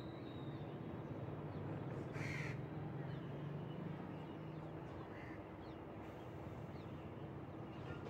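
Birds calling outdoors, with a harsh, caw-like call about two seconds in and a shorter one near five seconds, faint high chirps in between, over a steady low hum that stops about six seconds in.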